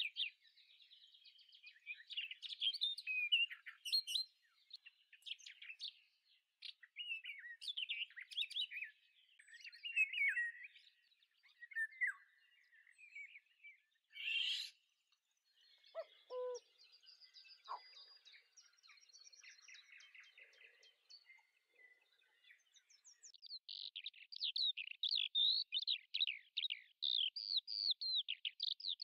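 Small birds chirping and twittering in short, quick, high calls, building into a dense rapid run of chirps near the end.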